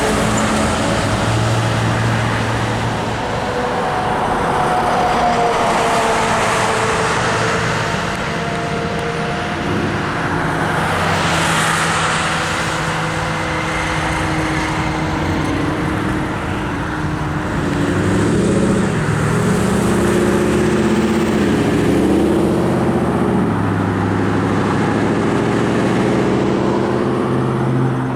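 Road traffic passing close by: vehicle engines and tyre noise rising and falling as cars and trucks go past, with a louder swell of noise about twelve seconds in.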